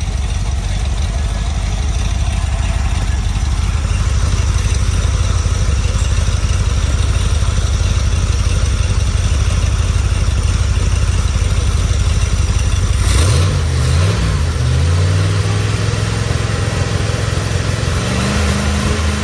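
Carbureted 4.0 Rover V8 aluminium pushrod engine idling steadily on an engine stand, then revved about two-thirds of the way through: the pitch rises and falls, holds at a faster speed, and climbs and drops again near the end.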